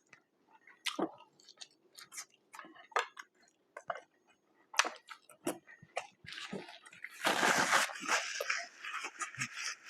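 Close-up eating sounds: chewing with wet mouth clicks and smacks. From about six and a half to eight and a half seconds in there is a louder stretch of crackling.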